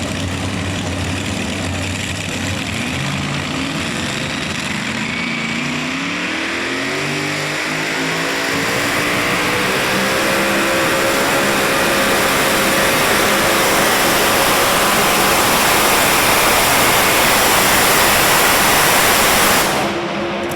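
Diesel engine of a pulling truck or tractor climbing in revs over several seconds, then held at full throttle with a loud rush and a high whine that slowly gets louder, stopping abruptly near the end.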